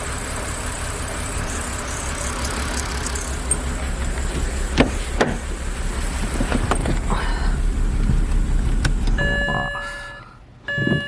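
BMW E90 inline-six idling roughly, misfiring from a failing ignition coil, then shut off about nine and a half seconds in, its sound dying away. A couple of clicks sound midway, and an electronic chime sounds twice near the end.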